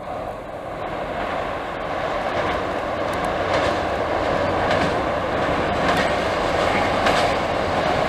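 JR Kyushu's Aso Boy limited express, a KiHa 183-1000 series diesel multiple unit, approaching along the line, its rumble growing steadily louder. From about two seconds in, its wheels click over rail joints roughly once a second.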